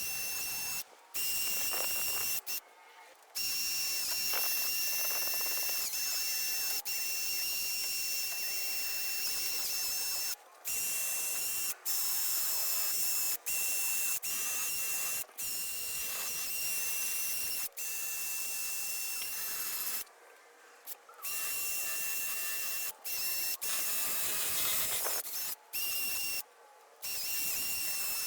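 Handheld power tool running in repeated stretches of several seconds, stopping and restarting about ten times, with a steady high whine under a hissing, scratchy noise.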